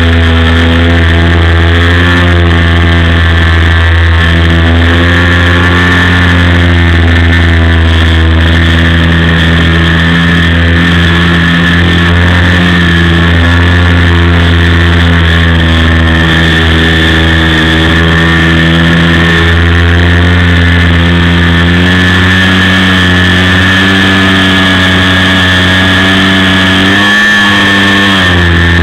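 OS FS-56 four-stroke glow engine of a model aeroplane running loud and steady in flight. Its pitch briefly drops and comes back up near the end.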